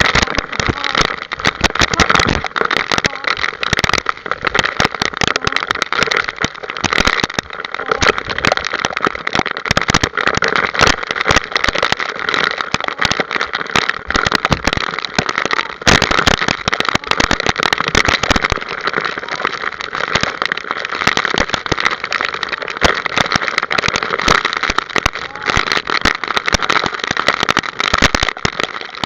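A harness-racing training cart rolling steadily behind trotting horses, with a continuous rattle and crackle and wind noise on the microphone.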